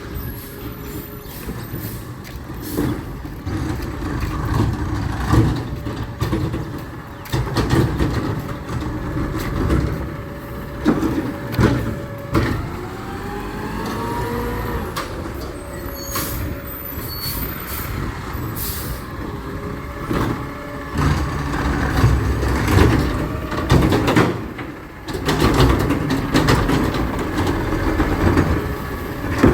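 Garbage truck running, with its engine rumbling low. A rising whine comes in about halfway through, and clanks and knocks are scattered throughout.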